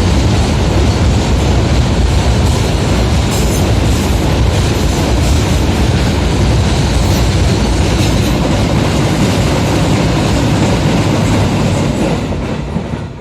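Long freight train of cement wagons running past at speed, with loud, steady wheel-and-rail noise; the noise falls away near the end as the train goes by.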